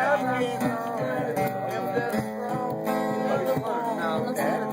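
Acoustic guitar being strummed, playing chords.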